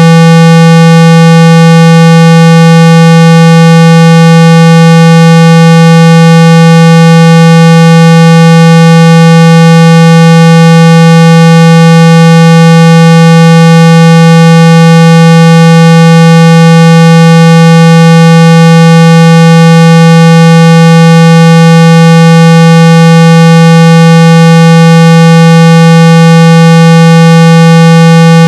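A loud, steady 165 Hz tone, buzzy with a long stack of overtones and no change in pitch or level. It is a speaker-cleaning tone, played to shake water and dust out of a phone's speaker grille.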